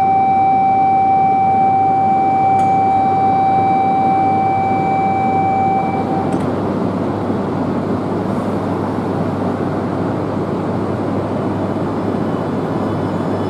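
A steady electronic warning tone sounds for about six seconds and then stops, over the constant hum of an E2-series Shinkansen train standing at the platform.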